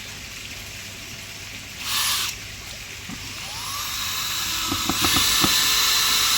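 Cordless drill-driver driving screws: a short burst about two seconds in, then a longer, louder run near the end, with a few knocks.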